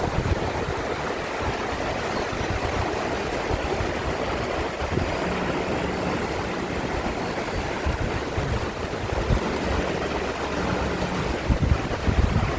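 Valley stream water rushing steadily. Wind buffets the microphone with low rumbles just before it begins and again near the end.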